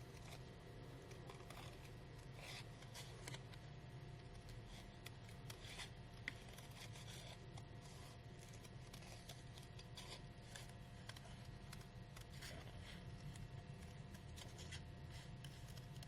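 Faint scissors snipping through crepe paper, with light paper rustling, over a low steady hum.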